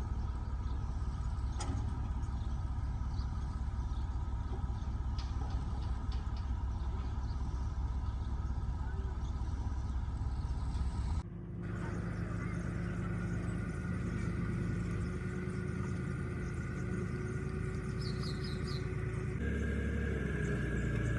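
A motor-vehicle engine running steadily with a low rumble. The sound changes abruptly about eleven seconds in and again a couple of seconds before the end.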